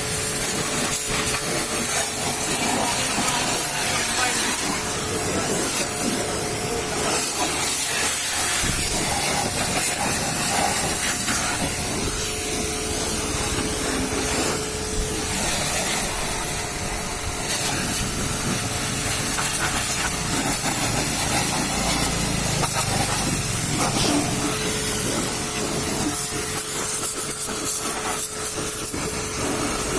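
Pressure washer spraying onto a truck, a steady hiss of spray with a constant hum underneath.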